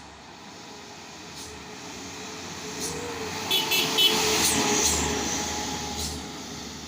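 A truck driving past on the road: engine and tyre noise grows louder, peaks about four to five seconds in, then fades.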